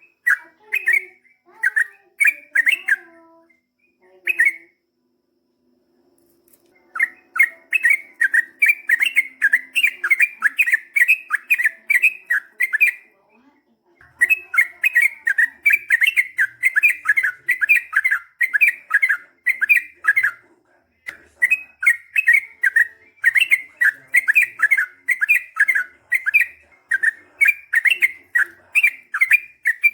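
Yellow-vented bulbul (trucukan) singing a long, rapid run of repeated notes, two to three a second. The runs are broken by short pauses about five and thirteen seconds in.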